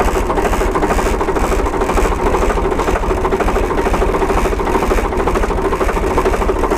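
Tractor diesel engine running steadily near idle while its hydraulic lift raises the rear linkage, triggered by the pressed draft-control spring.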